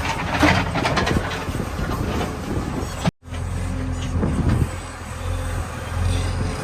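Diesel engine of a JCB 3DX backhoe loader running, with rattling noise through the first second or so. The sound cuts out abruptly about three seconds in and comes back as a steady engine drone.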